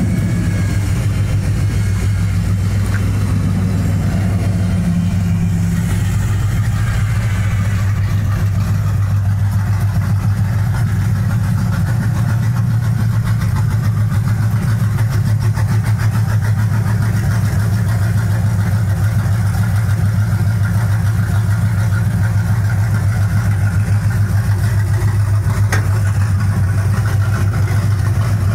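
A vehicle engine running steadily, a low even hum that holds the same level throughout.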